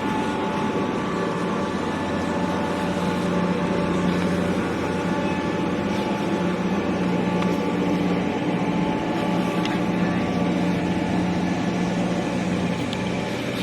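An engine running steadily, an even drone with low held tones.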